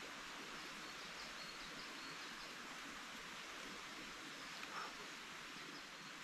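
Quiet forest ambience: a steady, even hiss with a few faint, short high chirps in the first half and a brief rustle near the end.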